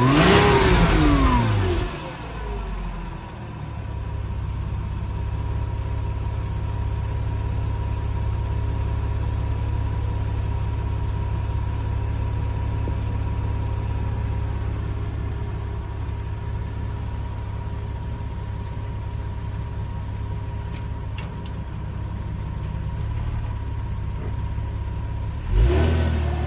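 Porsche Boxster 986 flat-six engine revved through its exhaust. A rev falls away in the first two seconds and it settles into a steady idle, then gets a quick throttle blip near the end.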